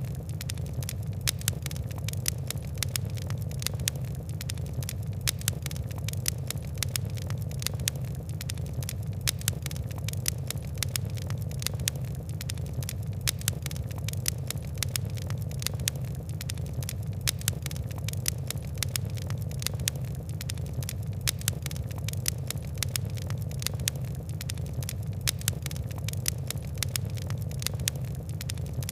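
Fire crackling: a dense, irregular run of quick sharp pops and ticks over a steady low rumble.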